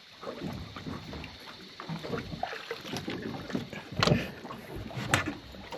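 Water sloshing and splashing around a small aluminium boat, with two sharp knocks against it about four and five seconds in.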